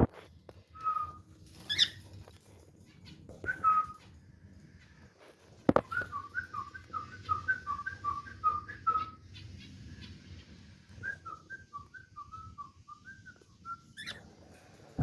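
Cockatiel whistling: a few single whistled notes, then two runs of quick up-and-down whistled notes, one in the middle and one near the end, with a couple of sharp clicks between.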